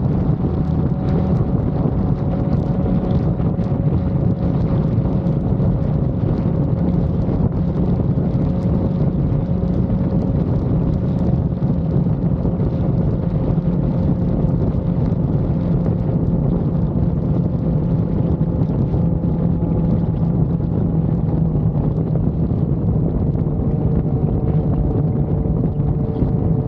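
Motorcycle running steadily at cruising speed, with heavy wind buffeting on the helmet or body-mounted camera microphone. The engine note holds fairly even, sagging slightly in pitch over the stretch.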